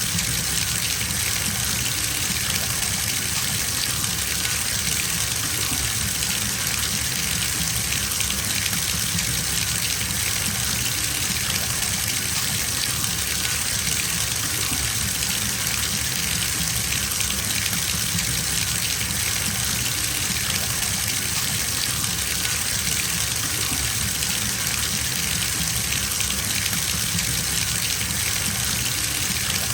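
Bathtub filling from the tap: a steady gush of running water splashing into the tub, unchanging throughout.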